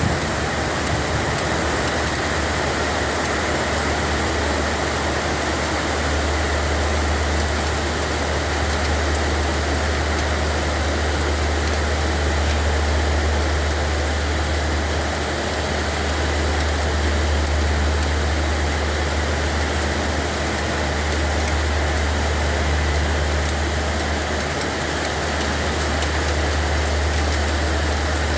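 Steady heavy rainfall, an even, unbroken hiss, over a constant low rumble.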